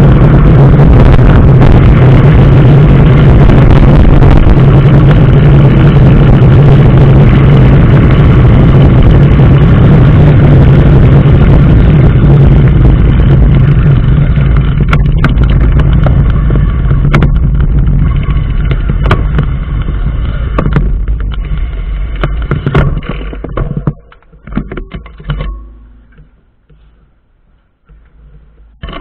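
Loud, steady road and wind noise of a moving vehicle with a low drone, gradually fading as it slows and dropping away about twenty-four seconds in as it comes to a stop. A few light clicks and knocks follow.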